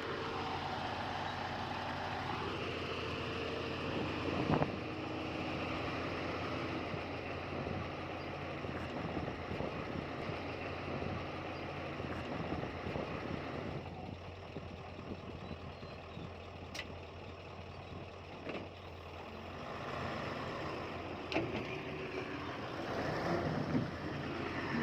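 Diesel engine of heavy earthmoving equipment (bulldozer or dump truck) running steadily, with a few short knocks.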